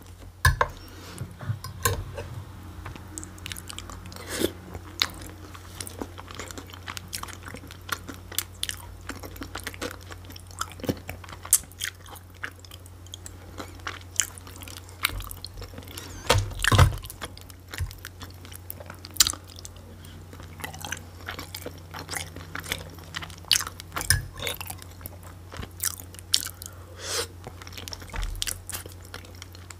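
Close-miked chewing of a mouthful of lazy cabbage rolls: wet mouth clicks and smacks, irregular and continuous, over a steady low hum. There is one louder knock about halfway through.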